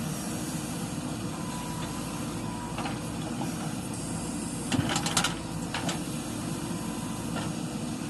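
JCB 3DX backhoe loader's diesel engine running steadily while it works, with a quick cluster of sharp knocks about five seconds in and single knocks shortly before and after.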